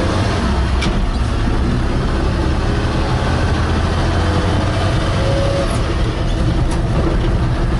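Chevrolet C10 pickup's six-cylinder engine running steadily as the truck drives, a strong low rumble.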